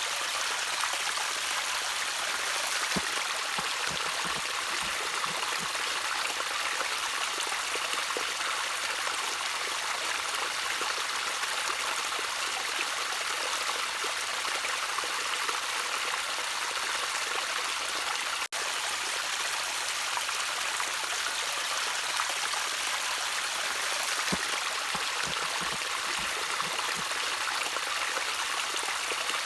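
Small stream of water trickling steadily, an even hissing babble, with a split-second break in the sound about two-thirds of the way in.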